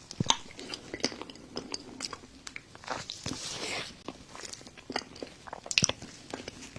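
Close-up eating sounds of chocolate lava cake: chewing and biting with many short, sharp clicks and smacks scattered throughout.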